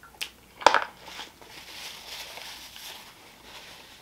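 Close-miked eating sounds: two sharp mouth smacks in the first second as fingers are licked, then softer chewing of a barbecue riblet.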